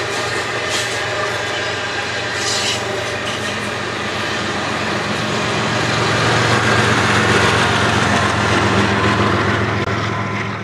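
Passenger cars rolling by on steel rails, with a few brief high wheel squeals early on. They are followed by the trailing GE ES44DC diesel locomotive, whose engine hum builds and is loudest as it passes about six seconds in, then fades as the train moves away near the end.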